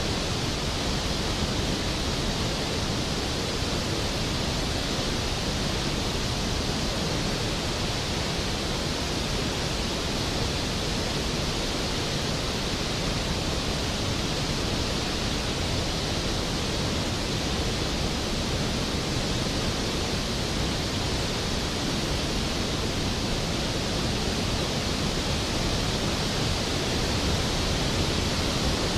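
Skógafoss, a large waterfall, pouring steadily: an even, unbroken rush of falling water with no changes.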